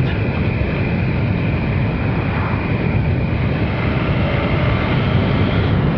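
Steady wind rush and engine noise from a Triumph Sprint RS's 955 cc three-cylinder engine cruising at an even, moderate speed, heard from the rider's seat.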